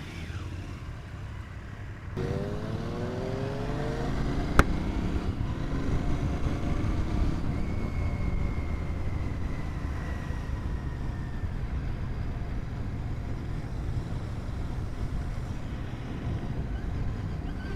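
Royal Enfield Continental GT 650's parallel-twin engine pulling away, its pitch rising as it gathers speed and then holding a steady cruising note over the rumble of riding. There is one sharp click about four and a half seconds in.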